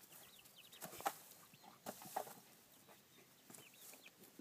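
Chickens clucking faintly, scattered short calls with a couple of slightly louder ones about a second and two seconds in.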